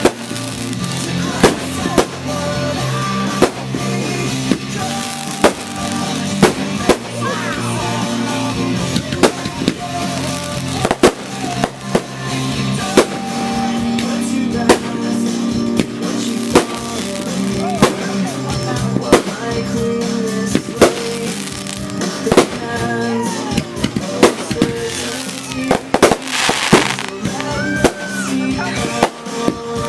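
Aerial fireworks going off one after another, sharp bangs about every second or two, over music playing along with the show.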